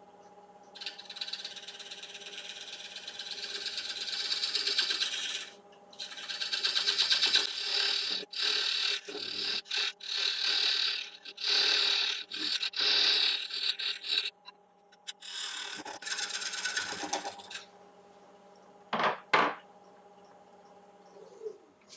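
A turning tool cuts a tenon into a spinning, dry 17-inch yew bowl blank on a wood lathe, in a run of scraping cuts with short pauses between them, over the steady hum of the lathe. Just after the cuts stop, there are two short, loud sounds.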